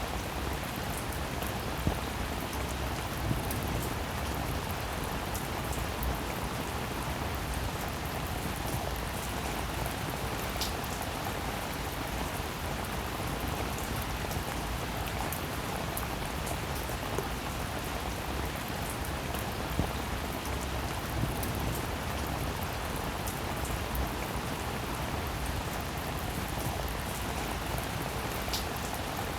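Rain falling steadily, a constant even hiss with many small, sharp drop ticks scattered through it.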